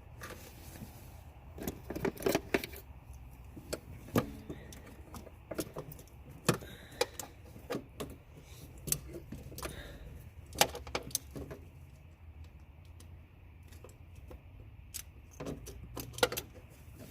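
Metal hand tools and parts clinking and clicking irregularly, with a few sharper knocks, during hand work in a car's engine bay.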